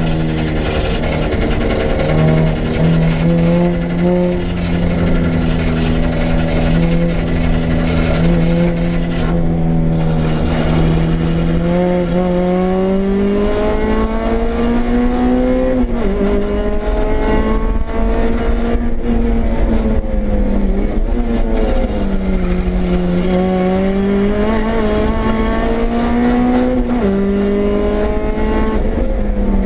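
Honda EG Civic's swapped K24/K20 inline-four running hard at track pace, heard from inside the cabin. Its note climbs steadily under acceleration and drops sharply twice at upshifts, and in between it falls and climbs again as the car slows for a corner and pulls out.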